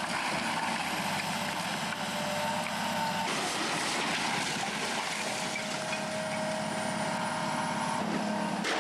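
Heavy machinery engine running steadily, with a faint held whine over the rumble; the sound changes abruptly twice.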